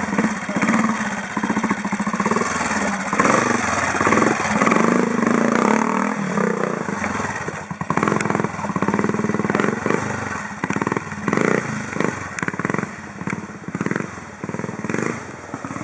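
Classic trials motorcycle engine working at low speed, its revs rising and falling as the throttle is opened and closed, then blipped in short bursts about once or twice a second in the second half.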